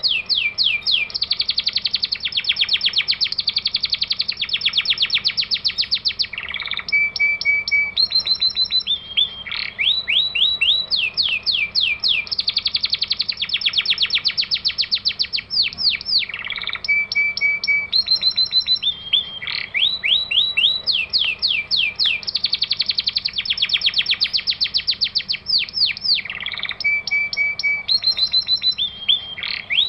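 Looped recording of songbird song used as a masteran training track: fast runs of sharp, down-slurred chirps broken by short level notes, the same phrase sequence repeating about every ten seconds.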